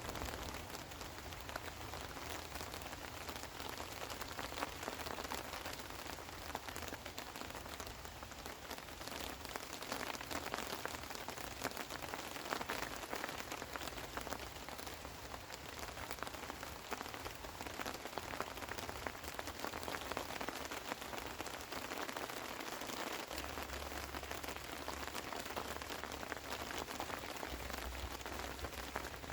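Steady rain falling, a dense, even hiss made of many small drop impacts.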